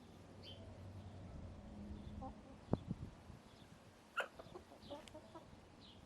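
Backyard hens clucking: a sudden loud cluck about four seconds in, followed by a quick string of short clucks. Two sharp knocks come just before, and faint wild-bird chirps sound throughout.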